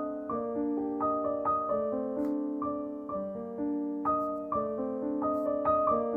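Gentle background piano music: a slow run of soft single notes over held chords.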